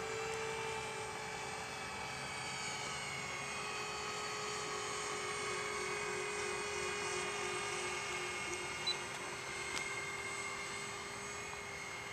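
Motors of a radio-controlled Airbus A380 model airliner running, a steady whine made of several tones at different pitches that drift slowly.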